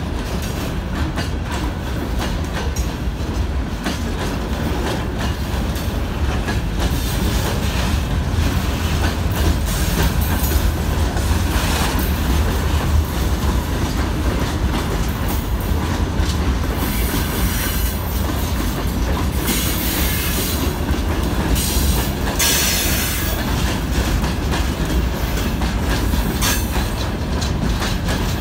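Freight train of open gondola wagons rolling past close by: a steady low rumble of steel wheels with rapid clacks over the rail joints. A high-pitched wheel squeal comes and goes in the second half.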